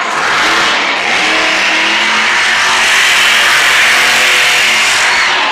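Monster truck engine running loud at high revs, its pitch stepping up over the first couple of seconds.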